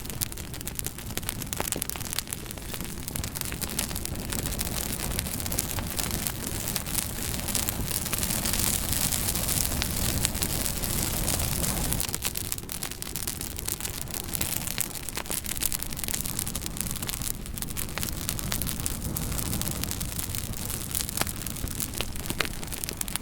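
Wood fire crackling: irregular sharp pops and snaps over a steady rushing hiss, which swells louder for a few seconds near the middle.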